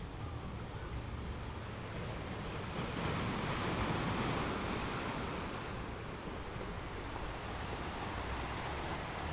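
Water rushing in a steady wash that swells louder for a few seconds in the middle, like a surge of surf.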